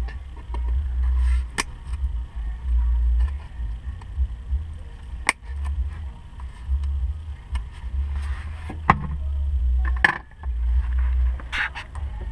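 Hands working at a Honda S2000's soft-top lock, pulling out worn foam and pressing a new piece in: a few sharp clicks and brief rustles. Under them runs a low, uneven rumble that comes and goes.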